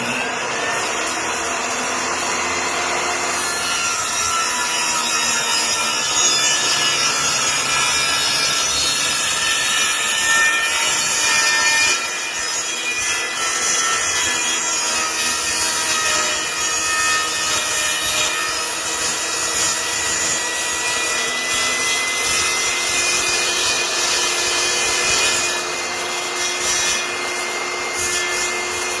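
Table saw running steadily with a motor whine, cutting a kerf part of the way through a crosscut sled's base.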